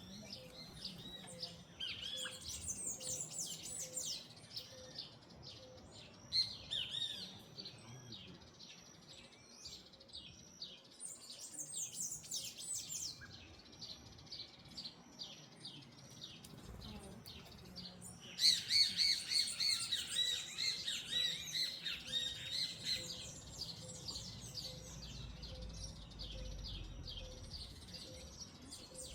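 Several small birds chirping and twittering, rapid short calls overlapping, swelling into a loud dense burst about two-thirds of the way through before easing off.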